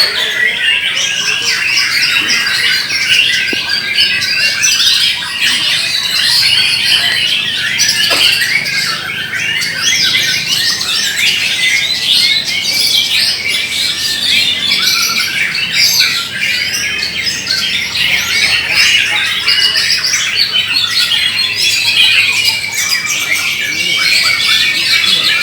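Many white-rumped shamas (murai batu) singing at once: a dense, unbroken chorus of overlapping whistles, chirps and harsh calls.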